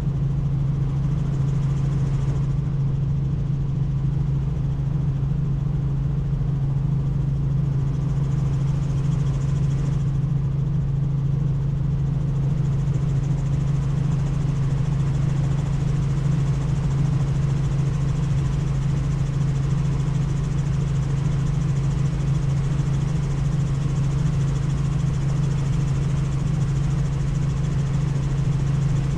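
Helicopter in flight: a steady, loud drone of rotor and turbine noise with a strong low hum, unchanging throughout.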